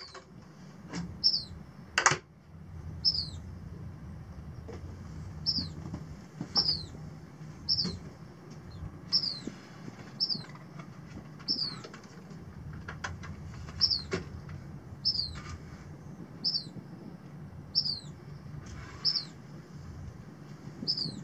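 A small bird chirping over and over, a short high note falling in pitch about once a second. Underneath runs a low steady hum, with a few sharp clicks and knocks, the loudest about two seconds in.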